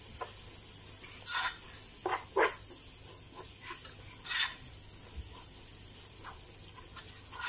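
Onion-and-spice masala frying with a steady sizzle in a nonstick pot, stirred with a plastic spatula that scrapes across the pan a few times, loudest about two and a half and four and a half seconds in.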